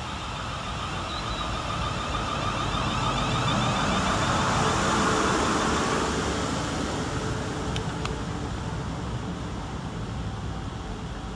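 Three coupled Class 450 Desiro electric multiple units running into the station on their approach. The traction-motor whine and wheel rumble build to their loudest about five seconds in and then ease as the train slows, with two short ticks near the end.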